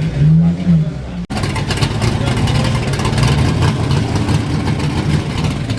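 Car engines running, with a short rev that rises and falls about half a second in. After an abrupt cut about a second in, a busier mix of engine noise follows.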